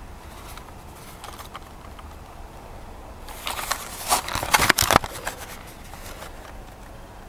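Feistel 'Feuer Kröten' firework going off: a burst of rapid crackling and popping starts about three seconds in and lasts about two seconds, then trails off into a few scattered crackles.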